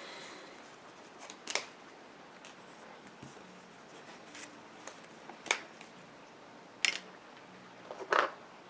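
Trading cards being handled and set down on the table during play, a few sharp snaps and clacks, four of them distinct, spread over a few seconds of quiet.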